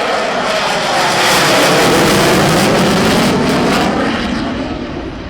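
Aircraft engines passing by in a flyby. The sound swells to its loudest mid-way, then fades near the end, its pitch sliding down as it goes away.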